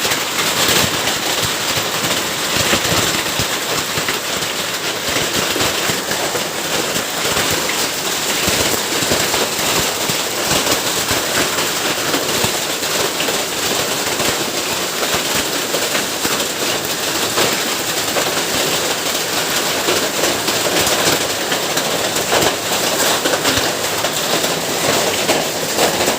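Hailstorm: hailstones and heavy rain pelting hard surfaces, a steady, dense rattle of countless small impacts with no let-up.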